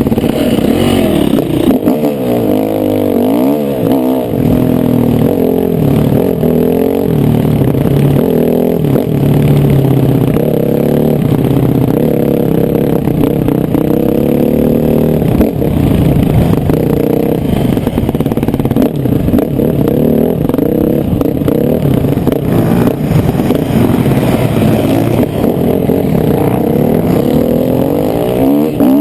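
Motocross bike engine revving hard, its pitch climbing and dropping again and again as the throttle opens and closes around the track.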